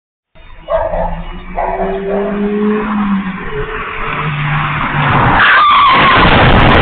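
Car engine running and tyres skidding. The noise swells into a loud, steady rush about five and a half seconds in, with a brief falling squeal.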